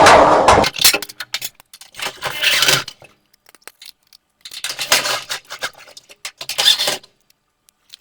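Metal clinking and scraping as screws are taken out of a dryer's sheet-metal housing, in four short bursts with pauses between.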